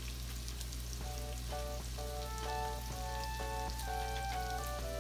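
Chopped tomatoes and onion frying in butter in a pan, a steady sizzle. A background tune of short notes comes in about a second in.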